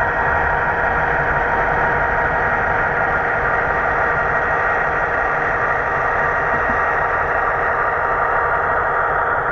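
HO scale model of a 422 Class diesel locomotive running with a couple of wagons, giving a loud, steady engine-like hum that holds constant throughout.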